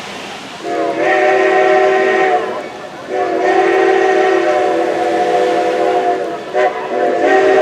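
Steam whistle of Strasburg Rail Road 2-10-0 steam locomotive #90 sounding a chord of several notes: one blast, a longer second blast, and a third starting near the end.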